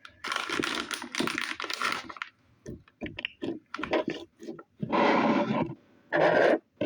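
Slime being kneaded and squeezed by hand, crackling and clicking as air pockets pop: a dense run of clicks for about the first two seconds, scattered single clicks, then two louder squishes near the end.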